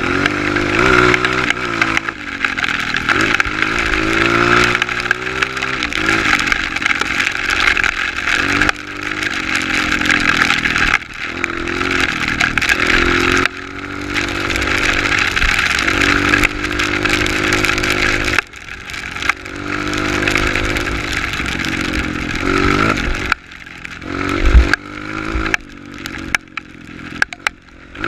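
Honda CRF 230 trail bike's single-cylinder four-stroke engine revving up and down over and over as it is ridden, with several sudden drops where the throttle is shut off. A couple of sharp knocks come near the end.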